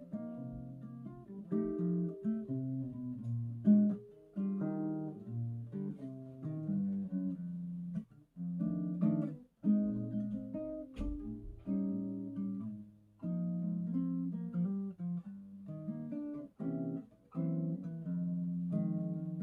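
Acoustic guitar played solo in an improvised jazz style, with plucked chords and single-note lines and short pauses between phrases.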